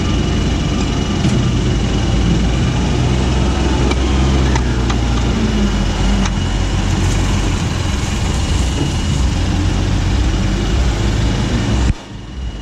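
Diesel engine of a Euro 4 truck with an aftermarket racing exhaust, running steadily under power. The sound drops off suddenly near the end.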